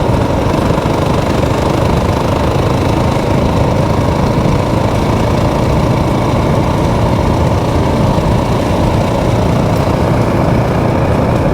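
Motorcycle engine running steadily at an even, low speed, with no change in revs.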